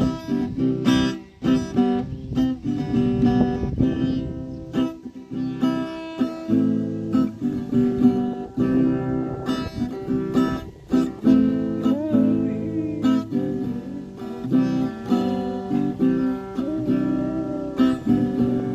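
Acoustic guitar playing, picked and strummed chords with notes ringing over a quick run of plucks.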